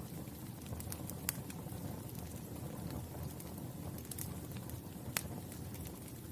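Wood fire crackling: a steady low rush of burning with scattered sharp pops, the loudest about a second in and again near five seconds.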